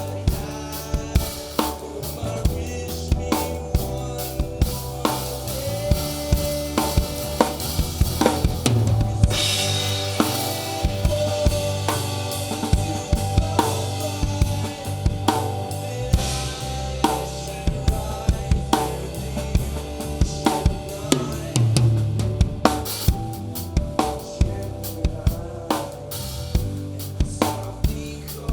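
Live band playing an instrumental passage with the drum kit close to the microphone: steady kick and snare hits and cymbals over sustained bass and chord notes.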